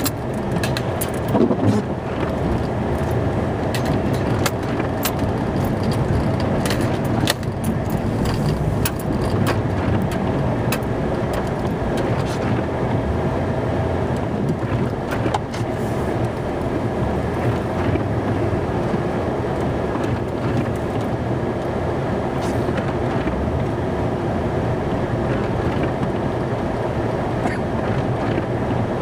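Plow truck's engine running steadily, heard from inside the cab, with occasional short clicks and knocks.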